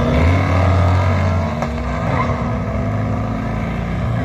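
Two cars launching off a drag strip start line and accelerating hard away, their engine notes rising. About a second and a half in the pitch breaks, then the engines run on more steadily as the cars pull away down the track.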